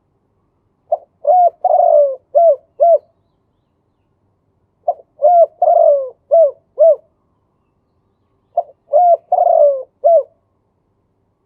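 Male spotted dove cooing: three song phrases a few seconds apart, each a quick run of about six short coos with one longer, falling note in the middle.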